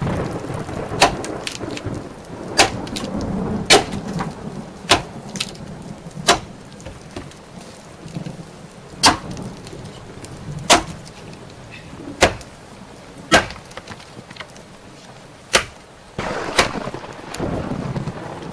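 Small fire of birch-bark shavings crackling, with about a dozen sharp, irregular pops over a steady low rush.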